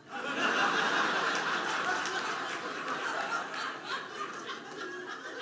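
Audience laughing and chuckling after a joke, swelling at once and slowly tapering off.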